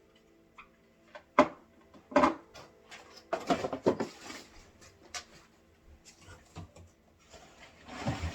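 Hard plastic vacuum parts and the battery charger being handled and set down: two sharp knocks, then a short run of clatter, a single click, and a rustle near the end.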